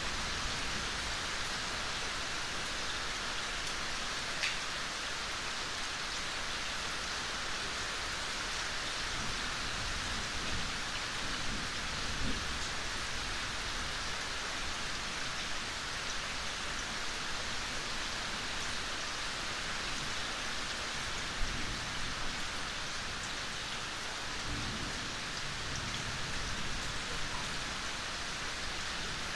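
Steady gentle rain falling in a forest, a constant even hiss with a few individual drops ticking now and then.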